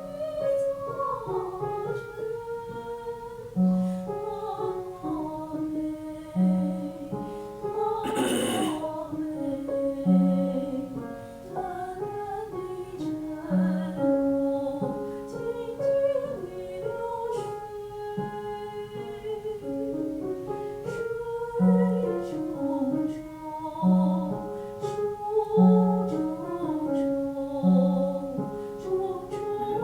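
A woman singing the first section of a song with piano accompaniment: a flowing melody over evenly repeated low piano notes. There is a brief burst of noise about eight seconds in.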